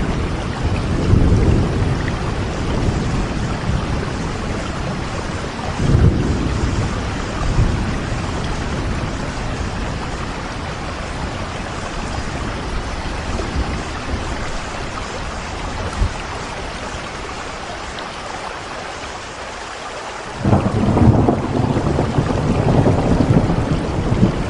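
Steady rainfall with low thunder rumbling over it: rumbles near the start and about six seconds in, then a louder roll that starts abruptly near the end.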